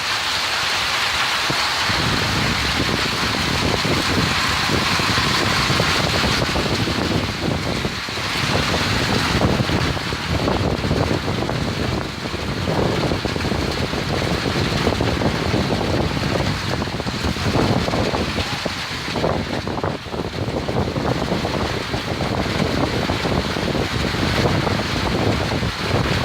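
Heavy rain pouring down in a storm, with strong gusting wind buffeting the microphone in low rumbles that rise and fall every few seconds.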